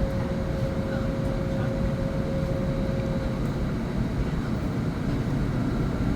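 Jet airliner heard from inside the cabin, its engines idling while lined up for takeoff: a steady, even drone of engine and cabin air noise. A faint steady whine in it fades out about halfway through.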